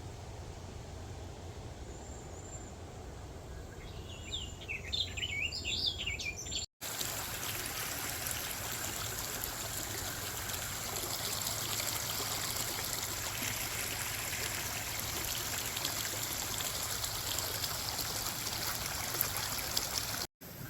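A few birds chirping over a low steady rumble, then after a cut a steady rush of running water, like a stream, that lasts most of the rest and stops abruptly near the end.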